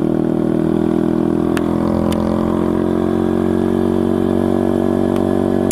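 SSR TR160's 160cc single-cylinder four-stroke engine running at a steady speed as the bike is ridden along.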